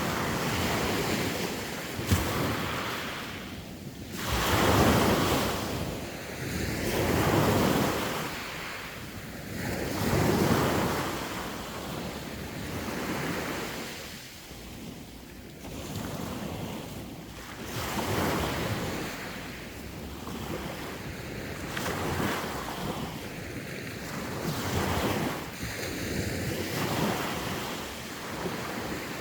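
Sea waves breaking and washing in, swelling and ebbing every few seconds, with wind on the microphone. A short sharp click about two seconds in.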